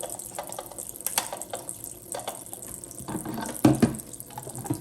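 Tap water running in a sink over plastic washing-machine filters being rinsed clean by hand, with scattered knocks and clicks and a louder splashing stretch near the end.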